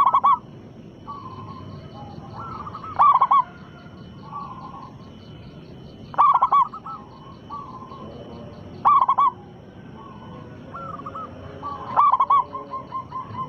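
Zebra dove (perkutut) cooing: loud phrases come about every three seconds, with softer coos between them. One phrase near the end trails into a quick run of short repeated notes.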